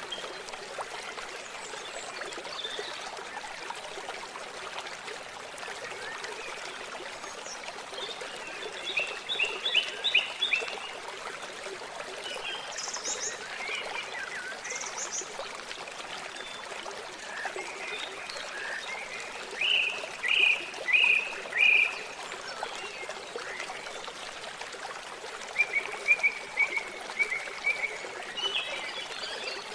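Water trickling steadily, with small birds calling over it in several short bouts of repeated chirps and a trill near the end.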